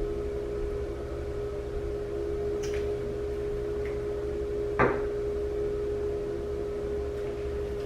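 A steady mechanical hum with one constant tone over a low drone, broken by a single short knock about five seconds in.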